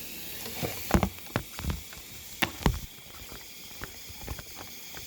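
Irregular knocks and clicks of things being handled, the loudest about a second in and again about two and a half seconds in, over a steady high hiss.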